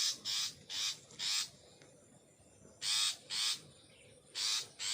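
Long-tailed shrike giving harsh, rasping scolding calls near its nest: about eight short calls, four in quick succession, then two pairs. This is the alarm of a parent bird at an intruder raiding its nestlings.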